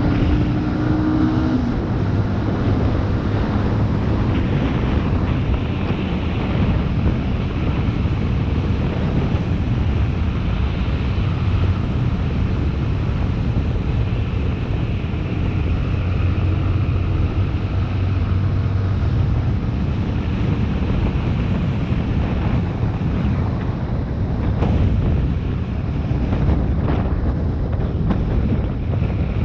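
Motorcycle engine running steadily on the move, with heavy wind buffeting the microphone.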